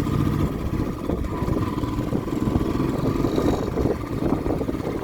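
A vehicle's engine running steadily while driving, with a continuous low rumble.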